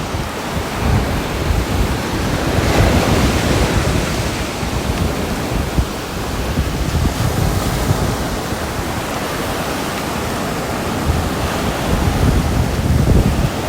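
Steady rain falling, a dense even hiss with a heavy low rumble that swells slightly now and then.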